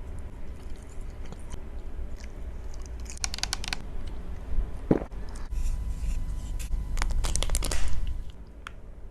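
Close-miked eating: crunchy bites into crisp fried food and chewing, with two loud clusters of crunches, one about three seconds in and a longer one near the end.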